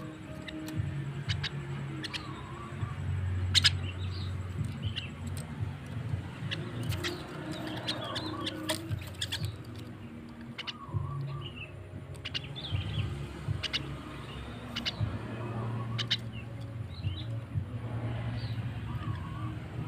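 Javan myna (jalak kebo) calling: a run of short chirps, whistles and sharp clicks, over a low steady hum.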